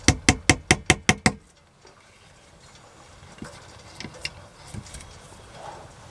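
A quick, even run of about eight sharp knocks, some six a second, which stops about a second in, followed by a few faint scattered clicks.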